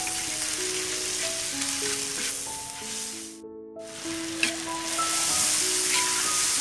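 Chopped chili and tomato paste sizzling in a large wok as a spatula stirs and scrapes it around the pan, with a few sharp scrapes in the second half. The sizzle drops out suddenly for a moment a little after three seconds in, with a light melodic tune underneath.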